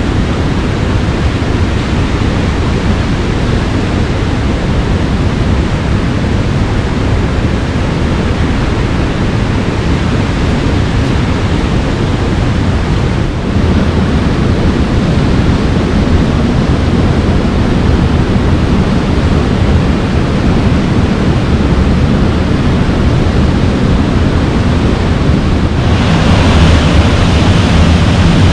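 Flotterstone Waterfall rushing, a loud, steady, even noise of falling water. It changes tone about halfway through and becomes brighter and a little louder near the end.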